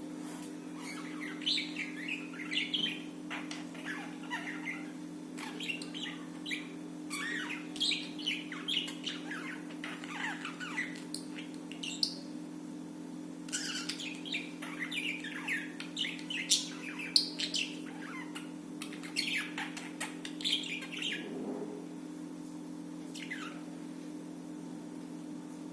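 Budgerigars chirping and chattering in quick, irregular bursts of short high calls.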